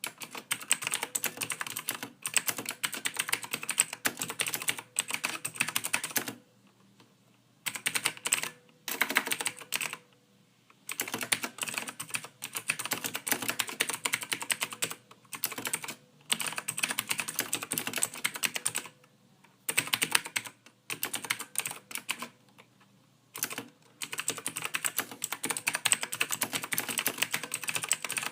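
Soft computer keyboard typing: rapid runs of keystrokes broken by short pauses of about a second.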